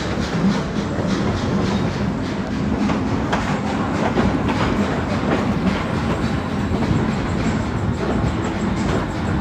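Passenger train car rolling steadily along the track, heard from aboard: a continuous rumble with the wheels clicking over the rail joints.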